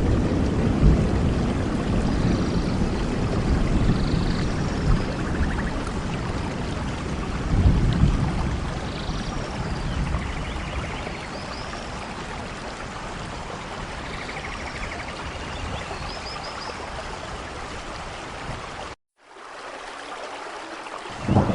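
Steady rain with low rumbling that eases off over the first half, and faint short high chirps now and then. About three-quarters of the way through the sound cuts out for a moment, comes back quieter, then swells loudly near the end.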